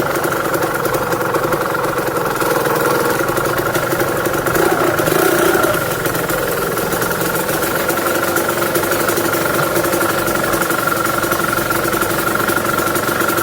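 Vehicle engine with its stock exhaust idling steadily, briefly rising and getting louder about five seconds in before settling back.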